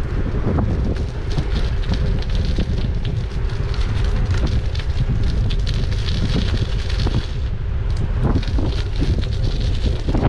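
Wind buffeting the microphone of a camera riding on a moving e-bike: a loud, steady low rumble. A scatter of crackles and ticks runs through it.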